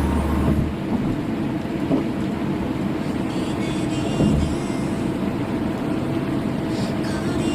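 Car driving, heard from inside the cabin: a steady low rumble of road and engine noise. Held music tones cut off shortly after the start.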